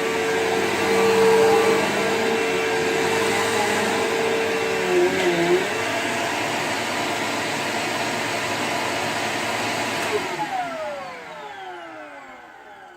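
Bissell PowerGlide Platinum bagged upright vacuum running steadily, its tone wavering briefly about five seconds in. It is switched off about ten seconds in, and the motor winds down with a falling whine that fades out.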